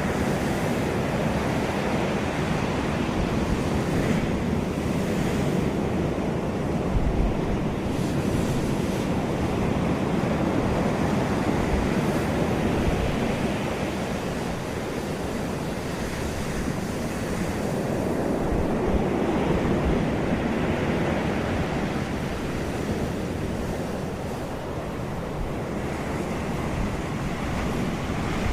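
Steady rushing of water and wind, with a low rumble underneath, slowly swelling and easing.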